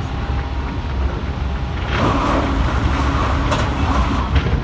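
Running noise of a Keihan 3000 series electric train heard from inside the front car: a steady low rumble of wheels on rail that gets louder about two seconds in. A few sharp clicks come near the end.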